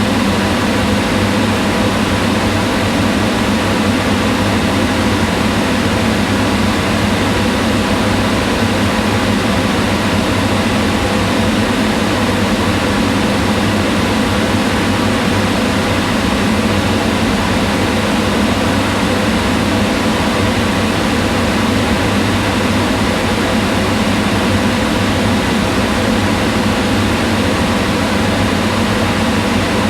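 Kitchen range hood exhaust fan running steadily: an even rush of air over a low motor hum, with no change in speed.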